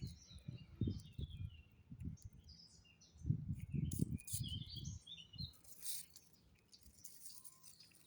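Small birds chirping and twittering, with irregular close crunching, strongest about three to five seconds in: a cat chewing dry kibble.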